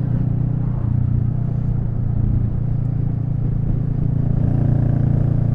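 Royal Enfield Meteor 350's single-cylinder engine running steadily under way, its note shifting slightly a couple of times, with wind rumbling on the microphone.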